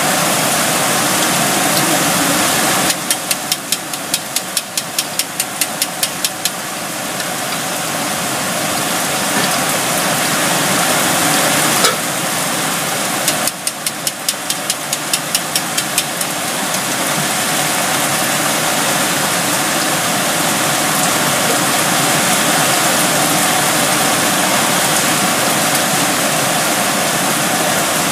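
Heavy rain and strong wind, a loud steady hiss. Twice, for a few seconds each, a rapid regular clicking runs through it.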